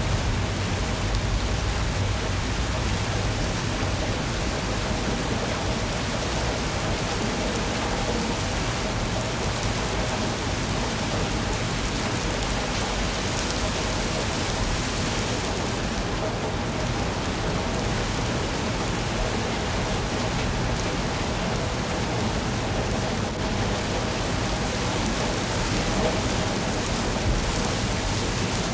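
Steady rainfall, an even rushing hiss of rain on surfaces with a low rumble underneath.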